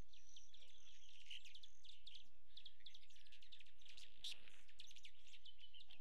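Small birds chirping: many quick, short, high chirps in a rapid, irregular stream, over a faint steady low hum.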